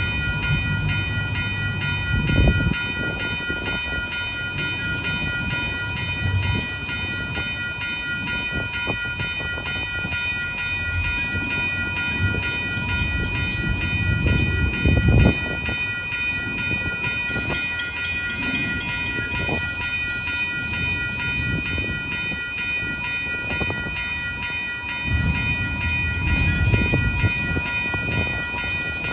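Double-stack intermodal freight train rolling past, its well cars rumbling with a few heavier thumps from the wheels and couplers, over a steady high-pitched whine.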